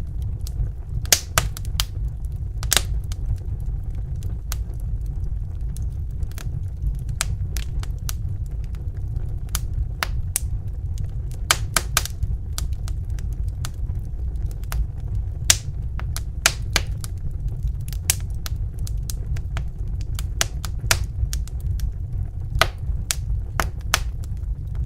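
Wood fire in a fireplace crackling and popping: a steady low rumble of the flames with sharp, irregular pops several times a second.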